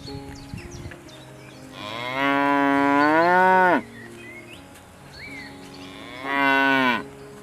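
A cow mooing twice: one long moo that rises and then falls before cutting off, and a shorter moo near the end.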